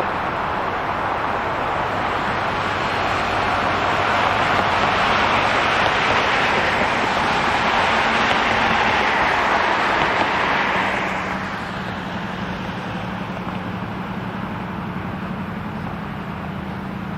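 Street traffic: a vehicle passes, its rushing noise swelling and then fading away about eleven seconds in. A low steady hum carries on underneath.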